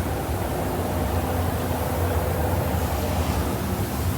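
A steady low mechanical hum with a few faint steady tones, unchanging throughout.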